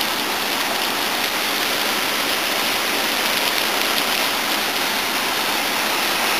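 Steady rain falling outside, a continuous even hiss with no breaks.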